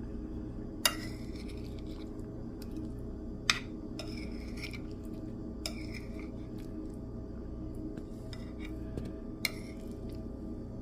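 Cutlery clinking and scraping against a dish while a forkful of pot pie is gathered, with three sharp clinks standing out (about a second in, halfway through, and near the end) over a steady low hum.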